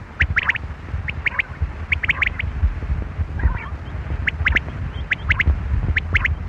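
Quail calling: short, sharp phrases of about three quick notes, repeated about once a second, with a brief rougher call about halfway through.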